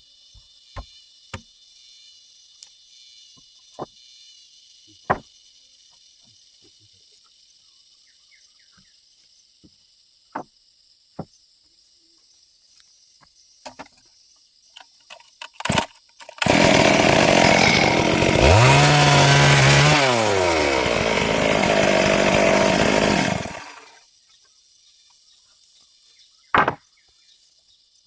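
Stihl MS 382 two-stroke chainsaw running at high revs for about seven seconds past the middle, its pitch dipping once and climbing back, then stopping. Before it come scattered sharp knocks and clicks, with crickets faint in the background.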